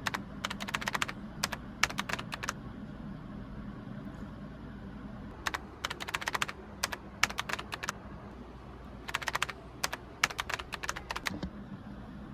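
Typing on a keyboard: quick flurries of key clicks separated by short pauses.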